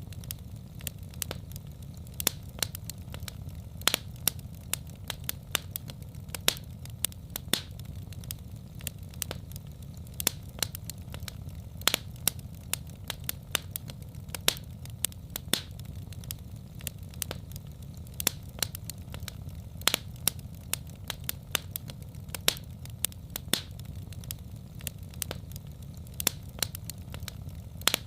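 Wood fire in a fireplace crackling: irregular sharp pops and snaps, several a second with an occasional louder one, over a steady low rumble.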